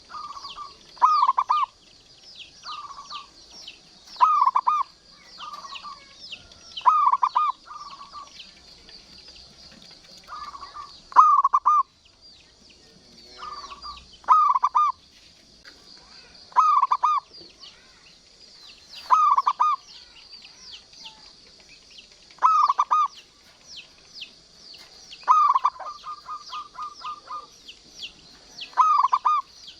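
Zebra dove (perkutut) cooing: short repeated coo phrases every one to three seconds, with a longer run of rapid short notes about 25 seconds in. Fine high chirping runs underneath.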